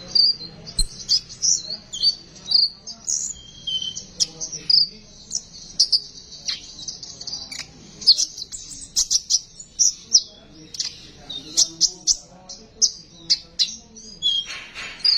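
Konin bird singing: a fast, unbroken run of high, sharp chirps and short twittering phrases.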